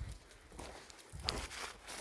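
Footsteps of a hiker descending a steep, rocky slope: a few irregular crunching steps on loose stones and gravel, with low thuds near the start and about a second in.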